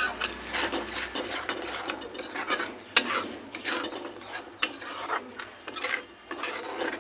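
A spatula scraping and stirring in a kadhai while onion-tomato masala with curd is fried, in repeated, irregular strokes, with a sharp clack about three seconds in.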